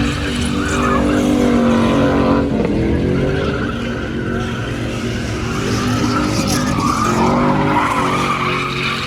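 A car spinning donuts: the engine held at high revs while the tyres squeal and skid. The engine pitch dips and climbs again about two and a half seconds in, and once more near seven seconds.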